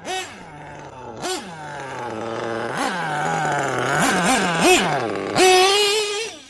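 Small nitro engine of a Losi 8ight-T RC truggy revving in quick blips, its pitch jumping up and falling back. In the middle it climbs for a few seconds, then near the end it holds a high-pitched full rev for about a second before cutting off suddenly.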